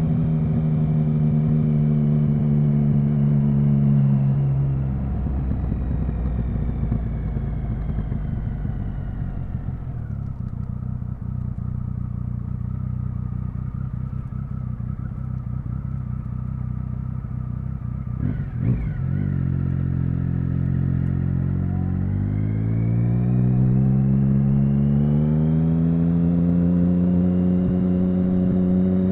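Triumph Speed Triple 1050's inline three-cylinder engine, heard from on board. It holds a steady note, then drops off the throttle to a low steady run with a brief blip of revs. Near the end it pulls up through the revs in one smooth rising sweep and settles at a steady cruising note.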